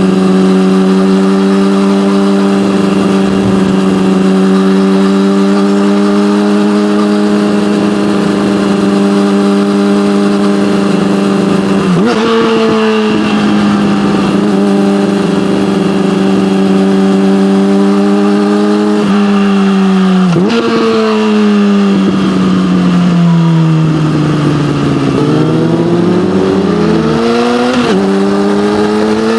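Yamaha motorcycle engine with an SC-Project aftermarket exhaust riding along. Its note climbs slowly, with a brief break in the revs about twelve seconds in and again about twenty seconds in, like gear changes. The revs then fall away with a couple of quick blips before climbing again near the end.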